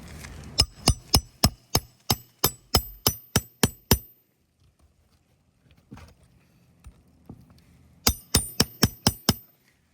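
Hammer driving a roofing nail back into a shingle: a run of about a dozen sharp, ringing metal strikes, about three a second, then a pause and six quicker strikes near the end.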